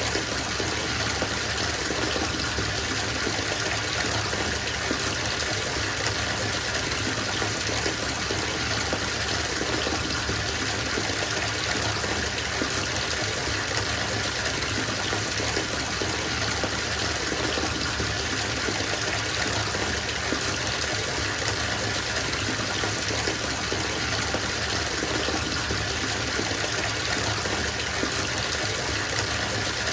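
Bathtub filling from its tap: a steady gush of water pouring into the tub, even and unbroken.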